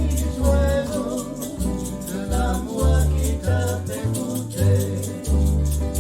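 Latin-style song: a voice singing the melody over plucked guitar, deep bass notes and a steady shaker rhythm.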